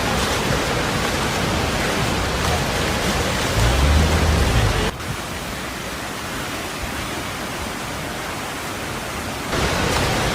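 Steady rushing noise of floodwater and rain, with a low rumble between about three and a half and five seconds in. The noise drops abruptly about five seconds in and comes back up near the end.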